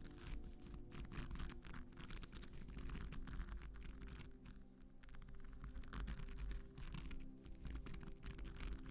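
Fingernails scratching a textured surface in quick, short strokes, over soft sustained background music.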